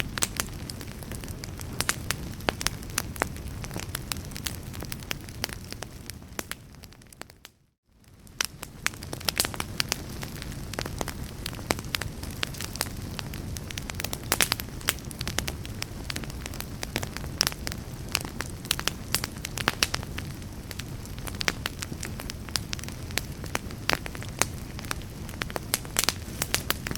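Crackling fireplace fire: a steady low rush of flame dotted with many sharp pops and snaps. Just under eight seconds in it fades briefly to near silence, then swells back up.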